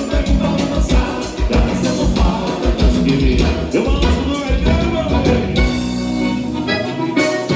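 Live gaúcha dance-band music with singing over a steady kick-drum beat. The bass and drum drop out for about a second near the end, then come back.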